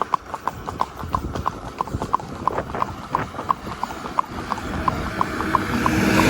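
Hoofbeats of gaited saddle horses in a show ring: a quick, even clip-clop of about five beats a second. A broad rush of noise swells toward the end.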